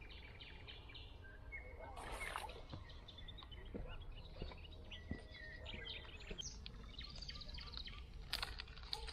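Birds singing: many short high chirps and trills over a low steady background rumble, with a few brief handling noises about two seconds in and near the end.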